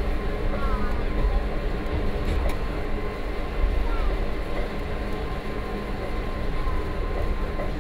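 Electric rack (cog) railway train of the Gornergrat Bahn running uphill, heard from the cab: a continuous rumble of wheels and rack drive on the track with a faint steady motor whine. Two brief faint squeaks come about half a second in and again about four seconds in.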